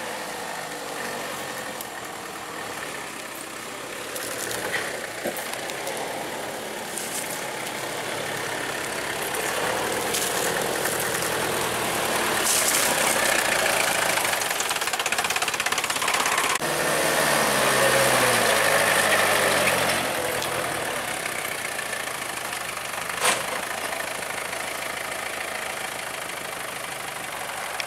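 Truck engine running steadily, with its revs swelling and falling back a little past the middle, and one sharp knock a few seconds before the end.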